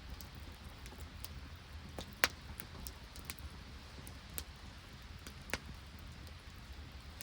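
Open wood campfire crackling: scattered sharp pops at uneven intervals, the loudest a little over two seconds in, over a low steady rumble and hiss.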